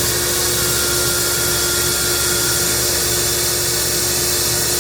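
Compressed air hissing steadily out of a cracked valve, bleeding down the tank pressure, over the steady hum of an Ingersoll Rand 50 hp air-cooled rotary screw air compressor running.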